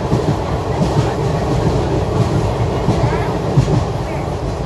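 A moving train on the rails: a steady low rumble of wheels and carriages with small irregular knocks.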